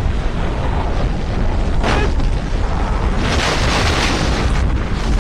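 Tornado wind: a loud, steady low rumble, with a hiss that swells for about a second and a half past the middle.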